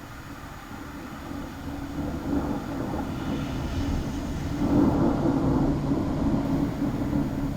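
Rolling thunder: a low rumble that swells from about two seconds in, is loudest around the middle and keeps rumbling.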